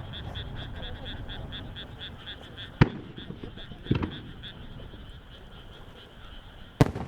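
Aerial firework shells bursting high overhead: a sharp bang about three seconds in, a duller boom a second later, and a second, louder sharp bang near the end. A steady, rapid pulsing call runs underneath.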